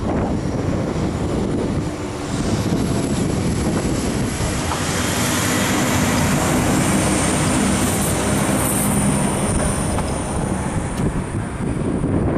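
A train running past on the track: a steady loud rumble of wheels on rails, with a thin high whine strongest in the middle.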